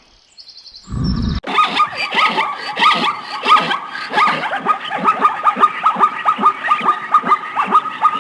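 An animal calling in a long, fast run of short, falling yelps, about three to four a second, after a brief low burst about a second in.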